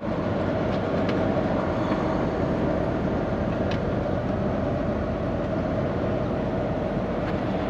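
Semi truck driving at highway speed: a steady drone of engine and road noise.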